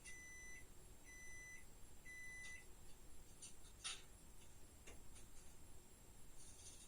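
Three identical electronic beeps, each about half a second long and spaced about a second apart, followed by a few faint clicks.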